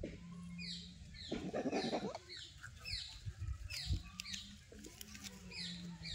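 Birds chirping: short, high chirps that fall in pitch, about one a second, over a steady low hum. There is a brief rustle about a second in.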